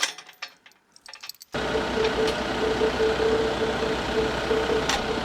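Tractor engine running steadily, starting abruptly after about a second and a half of near quiet with a few light clicks. The engine is pulling on a strap to draw a driven pipe post out of the ground.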